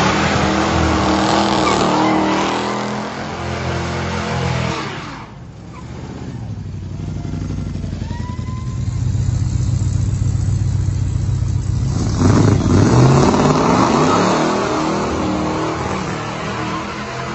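1969 Dodge Charger's engine running as the car drives through an intersection, a steady low rumble through the middle, then revving up and accelerating about twelve seconds in.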